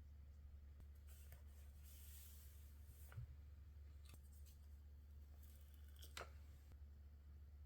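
Faint paper handling for a scrapbook collage: a soft rustle of paper and a few light, sharp snips or taps spread through, over a low steady hum.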